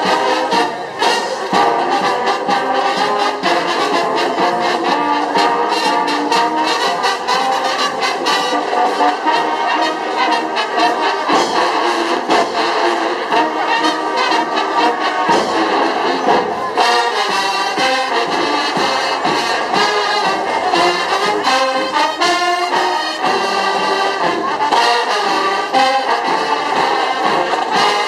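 Marching band playing loudly: trumpets and trombones carry the tune over a steady, driving beat from the drum line.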